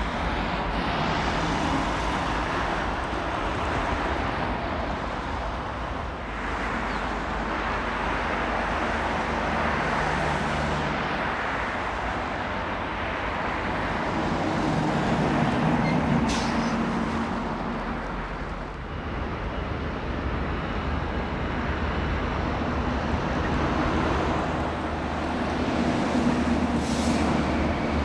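Steady engine and vehicle noise, a continuous rush that swells and eases, with low hums coming and going and two brief high hisses, one about halfway through and one near the end.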